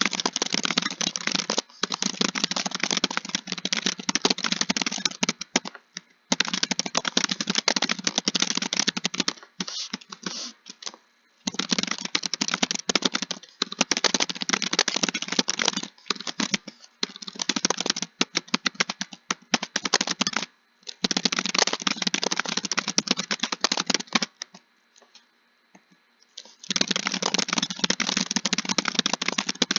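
Computer keyboard being typed on fast, in long continuous runs of keystrokes broken by brief pauses and one longer pause of about two and a half seconds near the end.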